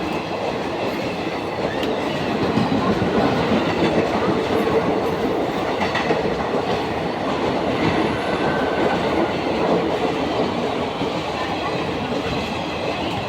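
A fast train running through a station without stopping, its wheels clattering steadily over the rails.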